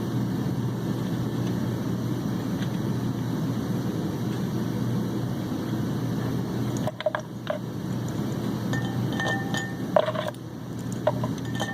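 Steady low shop hum that cuts off abruptly about seven seconds in. After it come scattered light metal clinks and short ringing taps from the flywheel-holding chain and tools being handled.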